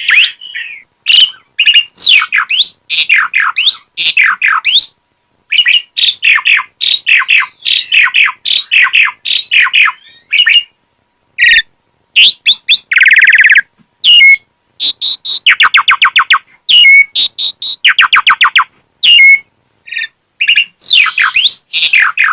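Asian pied starling (jalak suren) singing loudly through a varied song of quick whistles, chirps and rattling trills, in phrases broken by short pauses, with a harsh buzzy note about halfway through.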